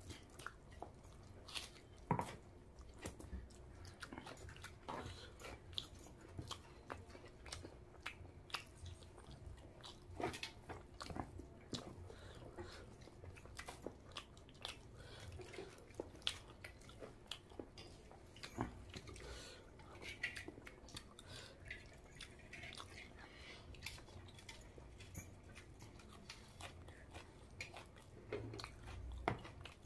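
Close-up chewing of a man eating rice with fish curry and egg curry by hand, with many short clicks scattered throughout.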